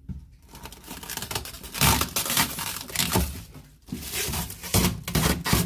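Protective plastic stickers being peeled off a new fridge freezer, with tearing, crinkling pulls that are loudest in two stretches, about two seconds in and again near the end.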